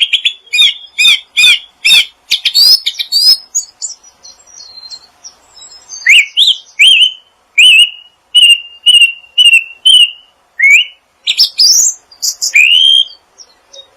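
A songbird singing close to the microphone. It gives a quick run of repeated chirping notes, pauses, then a series of short rising whistled notes about two a second, and ends with a final burst of song.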